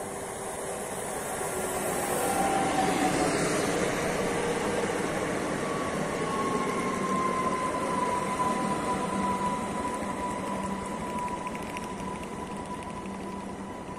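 Electric multiple unit passing along a station platform: wheel-on-rail rumble swells to a peak a few seconds in as it goes by, then a steady high whine takes over and slowly falls in pitch as the train moves away.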